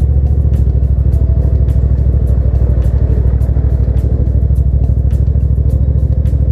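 Hyosung GT650 V-twin motorcycle engine running at a steady cruise, a low, evenly pulsing drone with no revving, with music alongside it.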